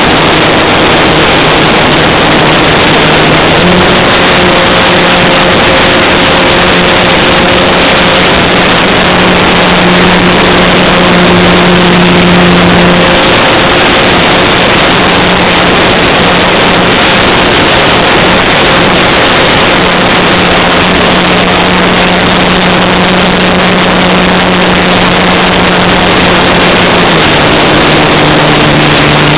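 Electric motor and propeller of an RC model Cessna 182 running steadily under a loud, even hiss. The propeller hum steps up slightly in pitch about three seconds in and drops back near the end.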